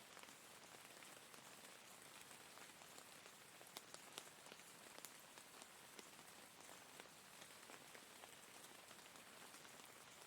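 Faint steady rain falling, a soft even hiss with scattered individual drops ticking.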